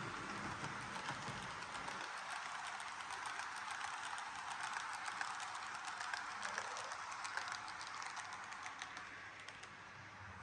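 H0m metre-gauge model train running along its track: a steady rolling hiss with many small, irregular clicks from the wheels on the rails, easing off near the end.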